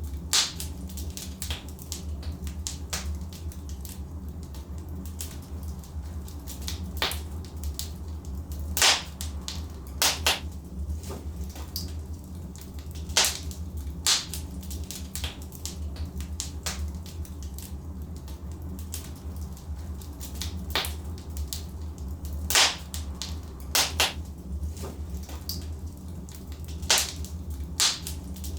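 Wood fire burning in a fireplace: a steady low rumble of the flames with irregular sharp crackles and pops from the logs, a handful of them much louder.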